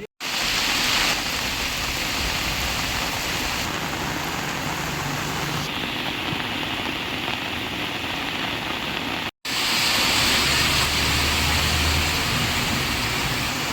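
Heavy rain pouring steadily. It breaks off for an instant about two-thirds of the way through, and a low rumble runs under the rain for a few seconds after the break.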